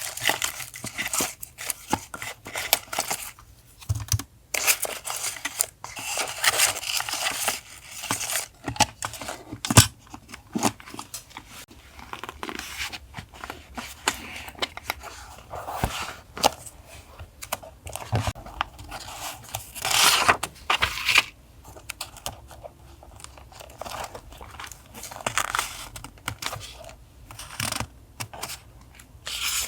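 Paper and sticker packs handled close to the microphone: irregular rustling, crinkling and tearing in quick bursts.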